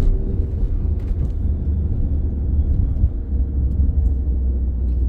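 Alfa Romeo Stelvio Quadrifoglio's twin-turbo 90-degree V6, still on its stock air filter, pulling the car along at low speed with a steady low rumble.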